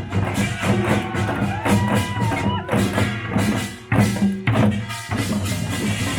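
Korean pungmul (nongak) folk percussion band playing: drums and small gongs struck in a driving rhythm of about two to three beats a second, with one sharper loud stroke just before the midpoint.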